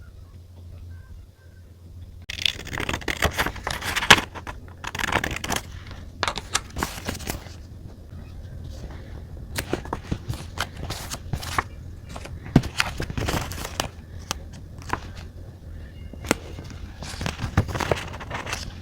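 Paper and sticker sheets handled at a desk: crinkling, rustling bursts for several seconds, then scattered light clicks and taps, and another rustle near the end. A low steady hum runs underneath.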